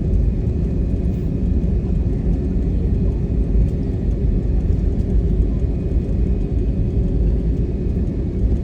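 Steady low rumble of a passenger jet airliner, with a faint high whine held on one pitch.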